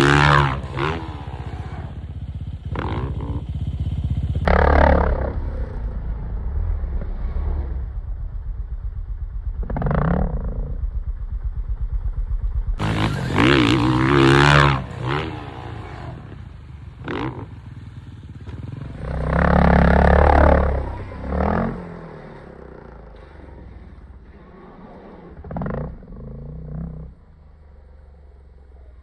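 A motor vehicle engine runs steadily and revs up in repeated surges, about every five seconds. It drops to a low steady sound near the end.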